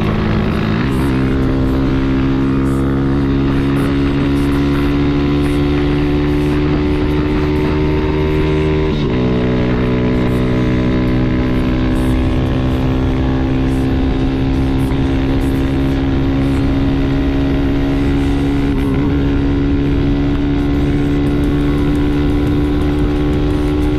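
Honda Titan 150's single-cylinder four-stroke engine under way, its pitch slowly rising as the motorcycle picks up speed, with shifts up a gear about a second in and again about nine seconds in.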